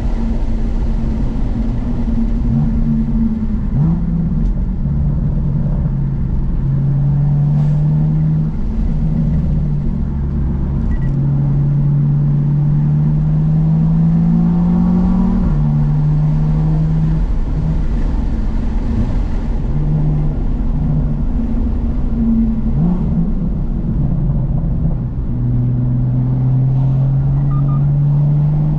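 BMW M2's N55 turbocharged straight-six through a Remus aftermarket exhaust, driven at low, changing revs: a deep, steady drone whose pitch steps up and down several times, climbing slowly around the middle and then dropping suddenly.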